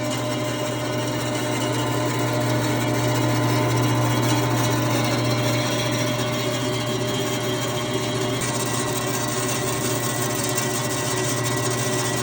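Jet JWBS-14SFX bandsaw running steadily with a strong low hum. Its blade guide bearings have just been backed off and reset to cure an excessive running noise.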